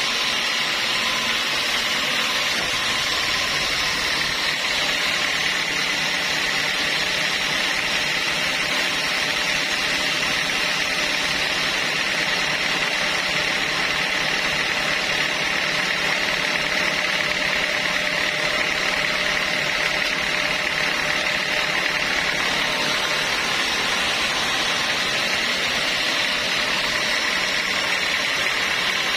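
Sawmill saw running with a steady, even noise and no pauses.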